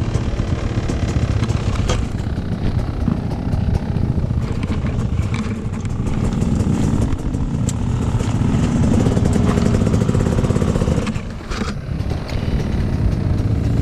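Motocross motorcycle engines running and revving, with a brief drop in level about eleven seconds in.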